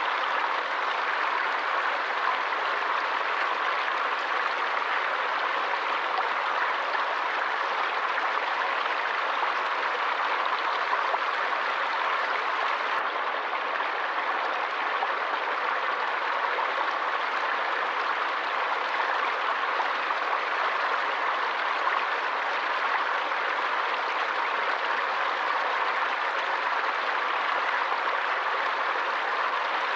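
Forest stream flowing, a steady, even rush of water.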